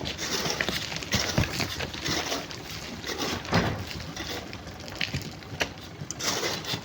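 Irregular scrapes and knocks of hand tools digging into sand and stone, several a second, over a noisy background.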